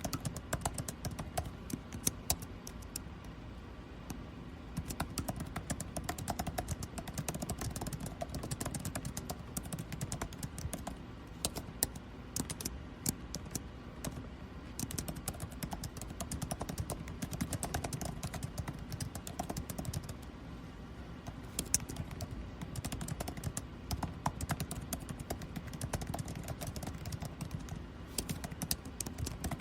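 Continuous, irregular typing on a computer keyboard, many keystrokes a second, over the steady low hum of air conditioning.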